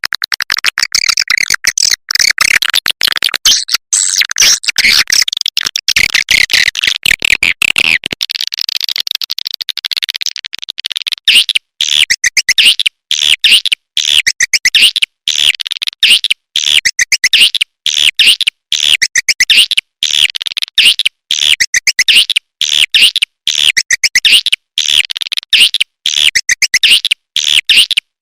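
Recorded swiftlet calls played as a lure track: dense, rapid twittering and clicking chirps for the first part, then from about a third of the way in, a short high chirp phrase repeating at an even pace like a loop.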